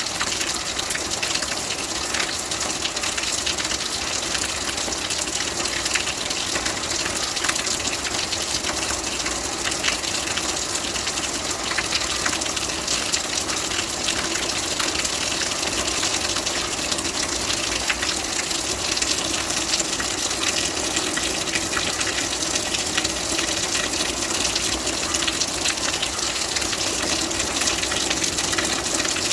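Steady heavy rain, a dense even hiss of falling water flecked with countless faint drop ticks.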